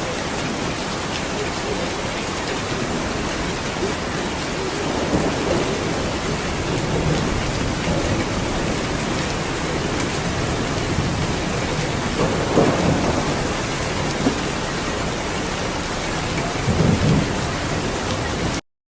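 Steady heavy rain with thunder rumbling low several times, strongest about two thirds of the way in and again near the end. The sound cuts off suddenly just before the end.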